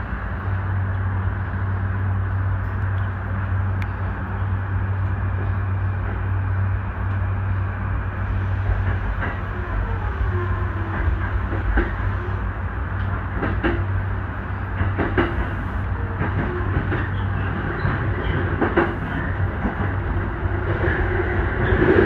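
JR East E235-series electric train heard from inside its front car as it pulls away from a station and gathers speed: a steady low hum, then wheels clacking over rail joints from about nine seconds in.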